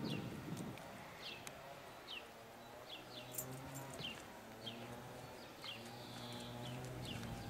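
A songbird calling outdoors, repeating a short falling chirp about once a second, over a faint low steady hum.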